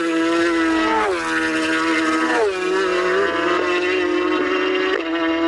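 Racing motorcycle engines at high revs, the pitch dropping sharply several times a second or so apart, as bikes pass at speed or shift gear.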